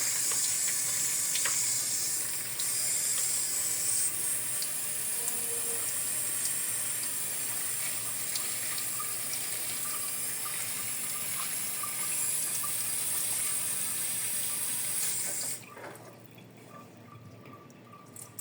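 Water pouring steadily from a 5-litre bottle into the Fastwasher's reservoir, stopping abruptly about fifteen seconds in.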